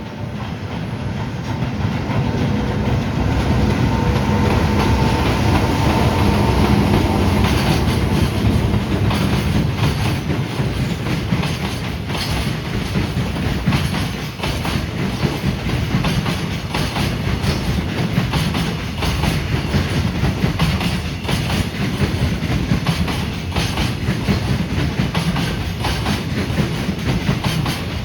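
Freight train hauled by an EH200 'Blue Thunder' electric locomotive passing: a steady hum from the locomotive during the first several seconds, then the wagons' wheels clattering rhythmically over the rail joints.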